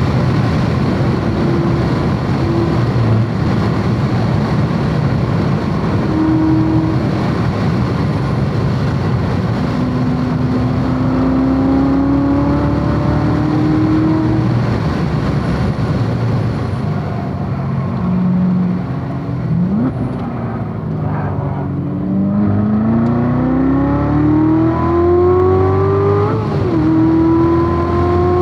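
C7 Corvette Z06's supercharged 6.2-litre V8 at full throttle on track, its pitch climbing through the revs with a brief downshift blip about two-thirds in, then a long pull and an upshift near the end, over heavy wind and tyre noise.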